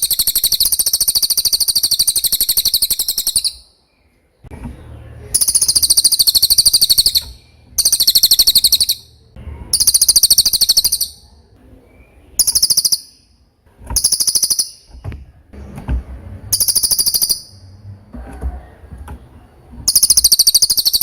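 Cililin songbird singing a run of loud, high, rapidly trilled phrases. Each phrase lasts one to three seconds, with short pauses between, about eight in all.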